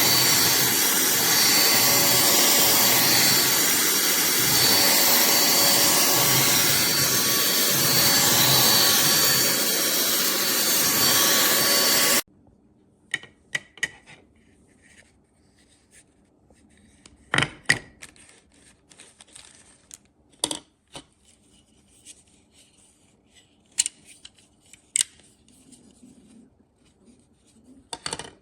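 A pemacom cordless handheld vacuum runs with a steady motor hum and suction rush for about twelve seconds, then cuts off suddenly. Scattered light clicks and knocks of the plastic unit being handled follow.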